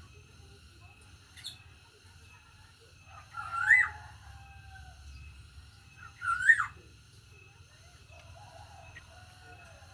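Black-naped oriole (kepodang) giving two loud fluty whistled calls about three seconds apart, each a quick phrase that rises and falls in pitch.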